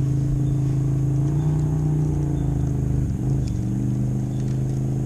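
Motorboat engine running steadily on the lake, a continuous drone whose pitch rises slightly about a second and a half in and dips briefly around three seconds in.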